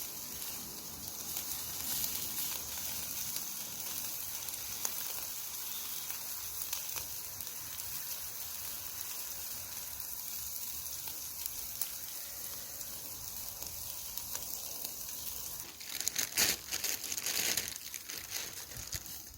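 Small campfire burning in a compact folding fire grill, a steady hiss with fine crackling, and a cluster of louder crackles and pops about sixteen seconds in.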